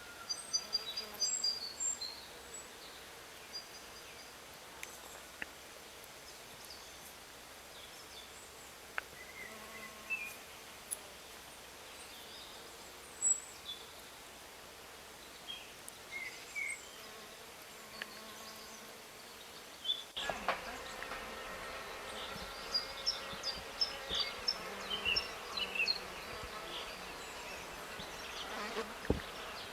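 Insects buzzing, with many short, high bird chirps scattered throughout. About twenty seconds in, the background changes suddenly and grows louder, with a steadier buzz and denser chirping.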